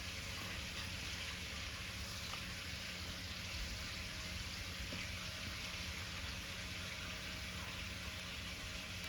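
Steady sizzling hiss of cooking in a pan over a bonfire, with a few faint crackles.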